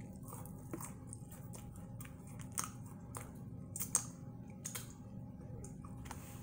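Close-up chewing of crunchy Flamin' Hot Cheeto-battered fried shrimp: scattered crunches and mouth clicks, the loudest around the middle, over a steady low hum.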